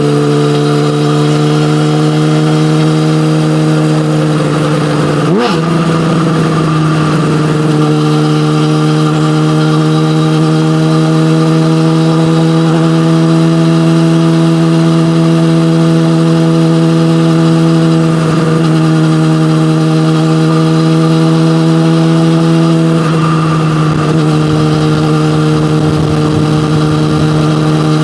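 Yamaha motorcycle with an SC-Project aftermarket exhaust running at a steady cruise, its engine note holding mostly level and shifting slightly in pitch a few times. A short sharp click comes about five seconds in.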